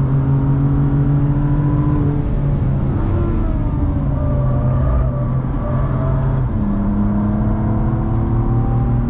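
BMW car engine heard from inside the cabin, running under load with a steady drone, easing off briefly about five seconds in, then pulling again with its pitch slowly rising near the end.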